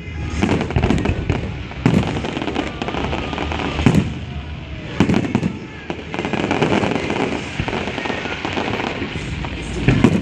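Aerial fireworks shells bursting, several sharp booms a second or two apart over continuous crackling and rumbling from the display.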